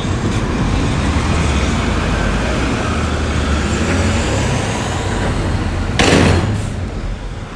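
Heavy diesel earthmoving machinery running with a steady low rumble, with a short, loud burst of noise about six seconds in.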